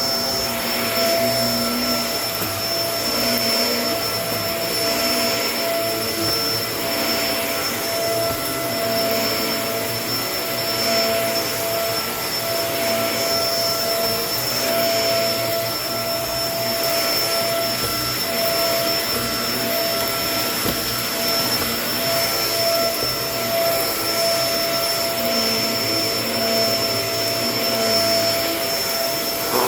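Kenmore vacuum cleaner running steadily, a motor whine over the rush of air. The airflow hiss swells and eases about every two seconds.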